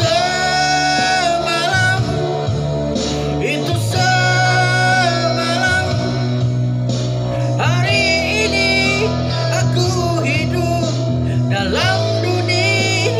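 A song: a voice sings long, held notes with a slight waver over a band backing with guitar and a steady bass.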